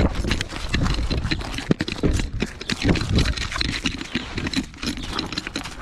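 Jostling noise from a camera strapped to a Weimaraner's collar as the dog moves: a quick, uneven run of thumps, knocks and rubbing.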